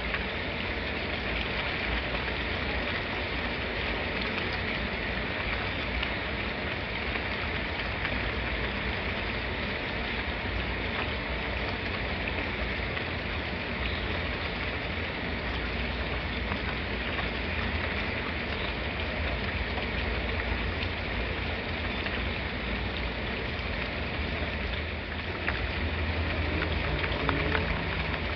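Steady rain falling and pattering on surfaces, an even continuous hiss, with a slight rise in low rumble and a few sharper drop crackles near the end.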